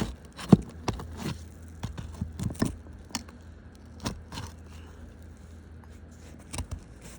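Flat bar prying a roofing nail out from under an asphalt shingle: scattered scrapes, crunches and light metal clicks, loudest about half a second in and thinning out after about three seconds.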